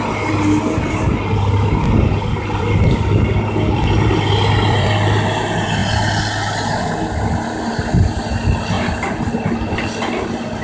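Kobelco excavator's diesel engine running steadily while it works, with a higher whine that glides down in pitch midway.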